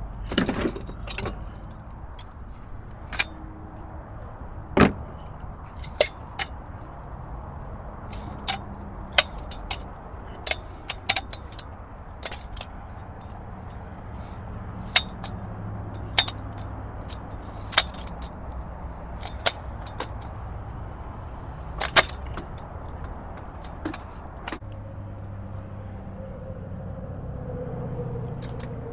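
Irregular sharp metallic clicks, clinks and knocks as gear strapped to the box truck's racks is checked and handled, over a steady low hum of vehicles.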